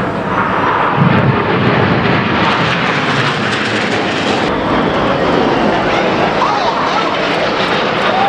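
Red Arrows' BAE Hawk T1 jets flying over in formation: a loud, steady rushing jet noise that grows brighter about two seconds in and dulls slightly past the middle.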